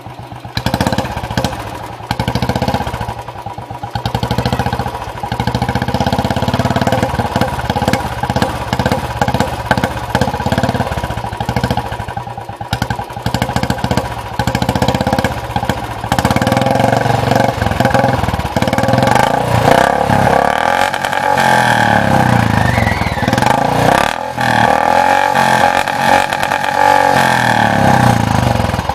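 Royal Enfield Classic 350's single-cylinder engine running through a short-bottle aftermarket silencer, giving its deep thumping exhaust note as the throttle is blipped again and again. In the second half it is revved up and down repeatedly.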